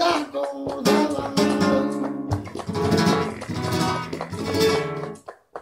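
Acoustic guitar in flamenco style, strummed chords ringing out, stopping shortly before the end.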